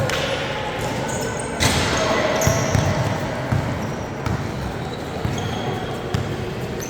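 A basketball bouncing in repeated thuds on a gym court, with many short high shoe squeaks and background crowd chatter.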